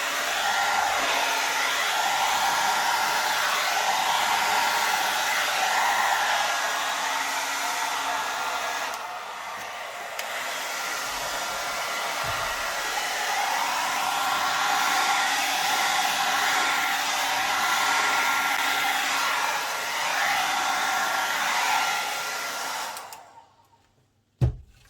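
Small handheld hair dryer running steadily, with a whine under the rush of air, dipping briefly about a third of the way in. It is switched off near the end, and a short knock follows.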